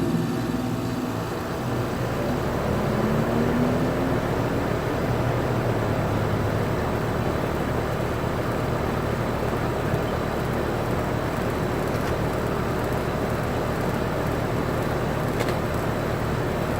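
2015 Goodman 5-ton central air conditioner's outdoor unit running, its scroll compressor and condenser fan making a steady hum and rush of air. A tone rises in pitch about three seconds in, then the sound holds steady.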